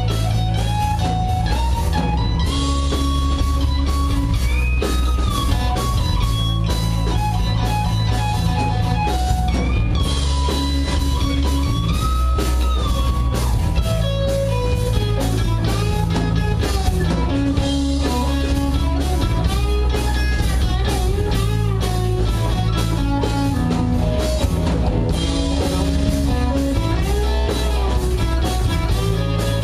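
Live rock band playing an instrumental passage: a bending electric guitar lead line over bass guitar and a steady drum beat, with no singing.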